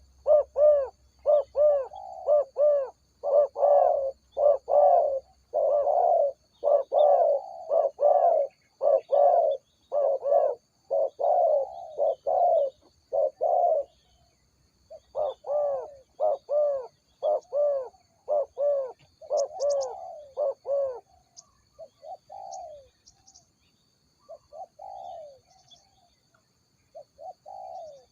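Spotted dove cooing: a long run of repeated low coos, about two a second, pausing briefly around fourteen seconds in, then resuming before trailing off into quieter, scattered coos near the end.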